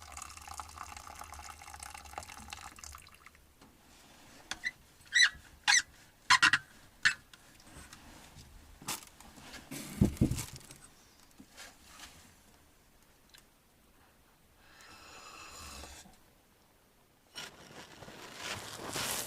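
Liquid pouring, then a series of sharp knocks and clatters with a dull thump about ten seconds in, and a rising rush of noise near the end.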